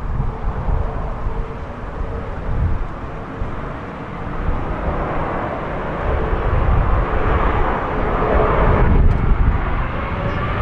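Boeing 787-8 Dreamliner's Rolls-Royce Trent 1000 jet engines running: a broad roar with a faint steady whine, growing louder about halfway through.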